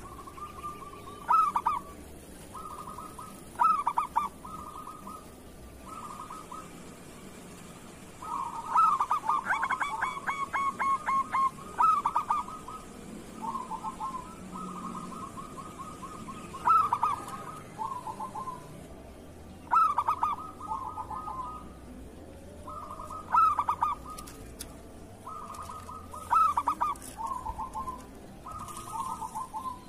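Zebra doves (perkutut) cooing: short phrases of quick staccato coos repeated every few seconds, with one longer rapid run of notes about a third of the way in.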